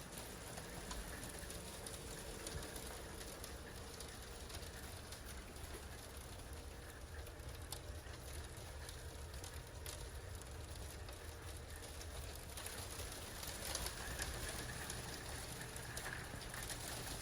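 Steady patter of wintry precipitation, with many fine ticks.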